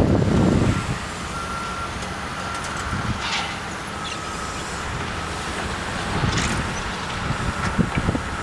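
Construction-site ambience: low, steady rumble of heavy vehicles and machinery, with wind buffeting the microphone in the first second. A faint repeating beep runs through it, like a vehicle's reversing alarm.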